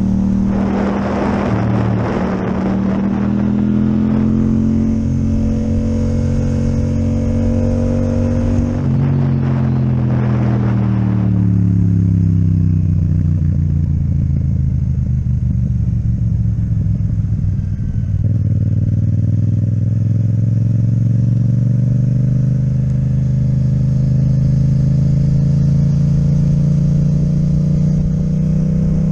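Yamaha MT-07 parallel-twin with an Akrapovic exhaust, heard from the bike while riding. The engine note holds fairly level, drops gradually from about nine seconds as the bike slows, then climbs steadily through the second half under acceleration. Two brief rushes of noise come near the start and about nine seconds in.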